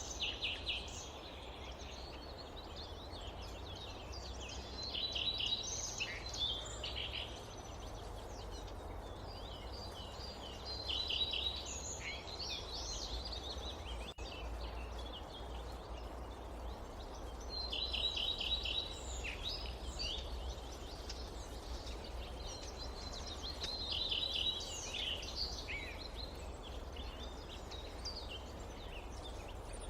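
A songbird singing in phrases about every six seconds, each a quick run of high repeated notes followed by a few scattered chirps, over a steady low wind rumble.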